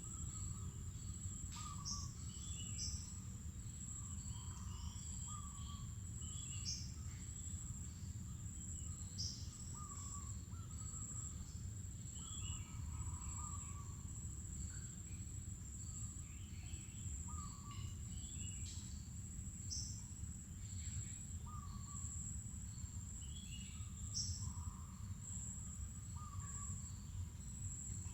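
Mangrove forest ambience: a steady high-pitched insect drone, with many short bird chirps and calls scattered throughout at several pitches, over a low background rumble.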